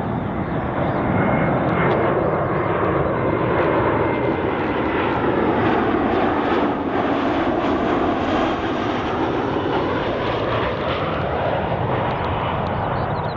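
Jet airliner passing close by on its landing approach: a loud, steady jet roar with a thin high engine whine, swelling through the middle and easing toward the end.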